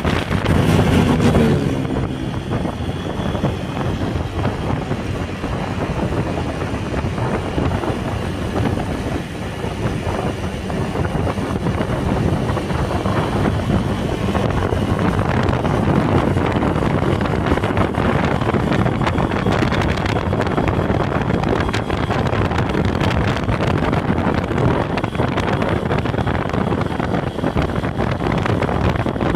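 Motorcycle engine running under way, its pitch rising briefly near the start, with heavy wind noise buffeting the microphone.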